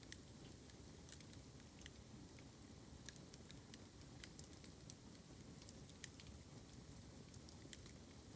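Bamboo burning in an open fire, crackling faintly with irregular sharp ticks and snaps over a low, steady rumble.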